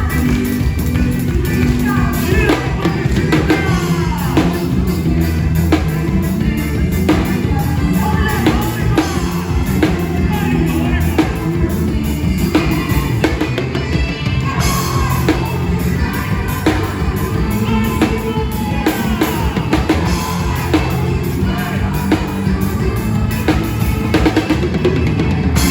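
Live band music with a drum kit keeping a steady beat and a melody line over it.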